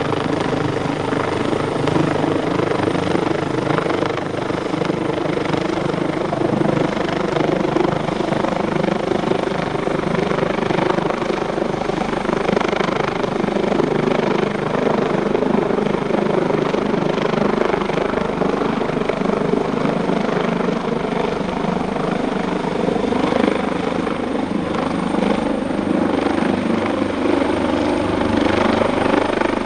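AgustaWestland AW139 helicopter running steadily, its five-bladed main rotor beating rapidly over the sound of its two Pratt & Whitney Canada PT6C turboshaft engines, with a high steady whine.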